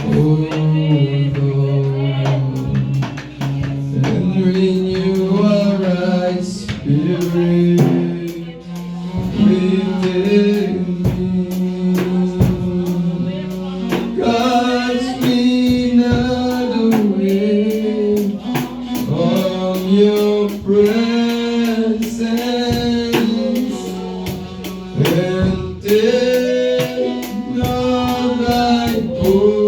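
Church worship song: a voice singing a slow melody over sustained instrumental chords, with a steady drum beat.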